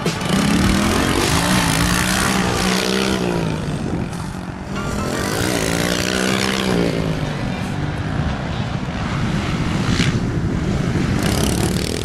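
Small dirt bike engine running, its pitch rising and falling as the throttle is worked, revving up and easing off a couple of times.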